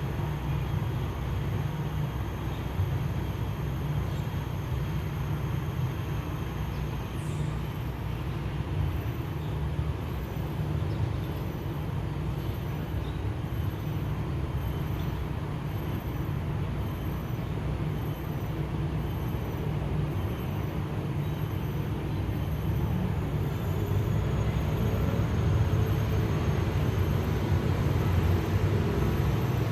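Steady low rumble of road vehicles running, growing a little louder about three quarters of the way through.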